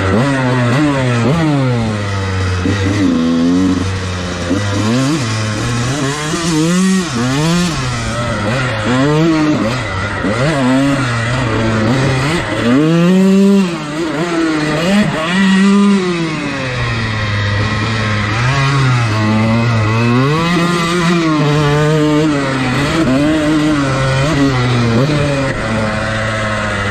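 Dirt bike engine being ridden, its revs rising and falling again and again as the throttle opens and closes, with a long climb to high revs about halfway through.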